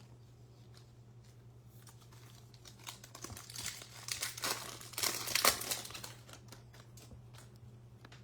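Foil wrapper of a Topps Fire baseball card pack crinkling and tearing open as the pack is unwrapped, loudest about five seconds in.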